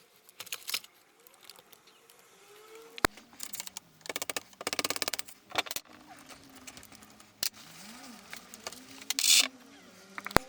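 Small tools and metal parts of a model steam locomotive being handled as its rear axle is taken out: scattered sharp clicks, with a rapid run of clicks lasting about a second around the middle.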